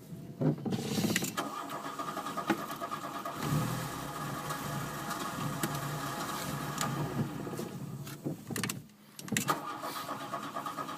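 Car starter motor cranking an engine that is slow to fire: a hard start, with a relay newly fitted. It cranks steadily for about seven seconds, stops briefly, then cranks again near the end.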